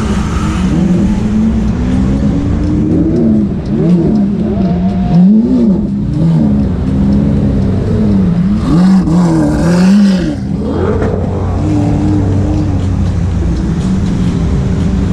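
Supercar engines revving in repeated short blips, the pitch rising and falling many times over a steady idle.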